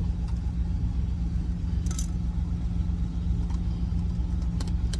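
Steady low drone of an idling truck engine, with a few sharp clicks about two seconds in and near the end.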